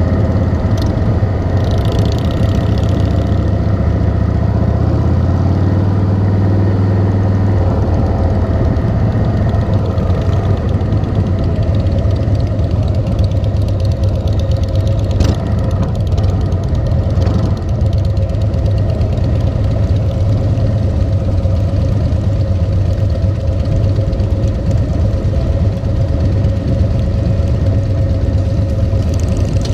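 Motorcycle engine running at low speed and idling in slow traffic, a steady low-pitched sound that drops slightly about seven seconds in.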